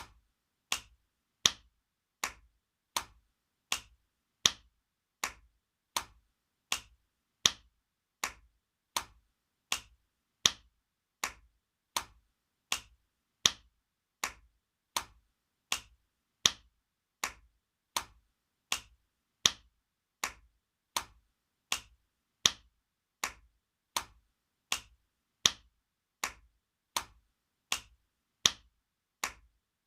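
Spanking sound effect: a hand slapping skin in sharp, short smacks, repeated steadily about every three-quarters of a second, alternating louder and softer strikes.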